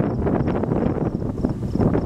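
Storm wind buffeting the microphone: a steady, loud, low noise broken by irregular crackling gusts.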